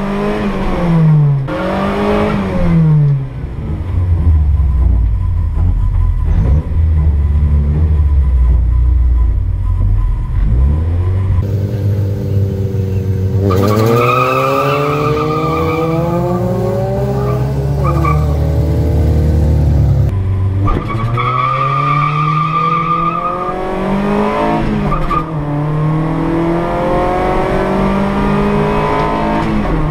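Ford Escort's engine accelerating hard through the gears, its pitch climbing and dropping back at each gear change several times, after a stretch of heavy low rumble.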